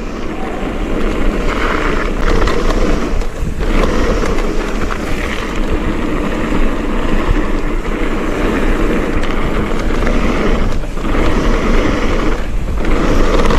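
Mountain bike rolling down a rough forest trail: a steady rush of tyre noise, bike rattle and wind on the rider's camera microphone, easing off briefly a few times.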